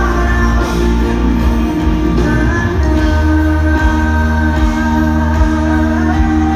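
Live pop-rock band playing through a concert PA, with sung vocals over steady heavy bass and long held notes.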